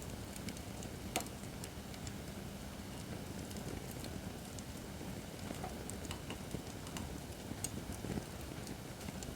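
Acacia firewood burning in a fire pit stand: a steady low rumble of the flames with scattered sharp crackles and pops, one louder pop about a second in and a cluster of them near the end.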